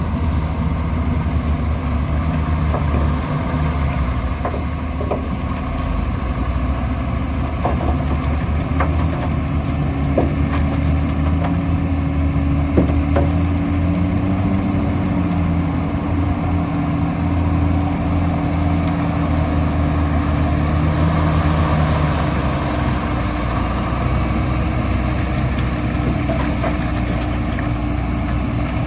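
Heavy diesel engine of construction machinery running steadily, its pitch wavering a little, with a few short clanks.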